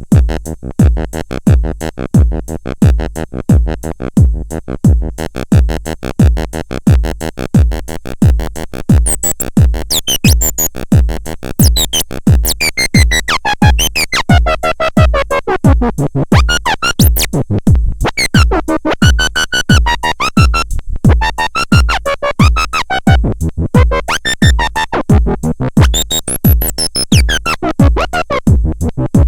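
Electronic music from a synthesizer and drum machine: a steady heavy kick beat under a fast pulsing sequence, with synth tones sweeping up and down in pitch from about a third of the way in.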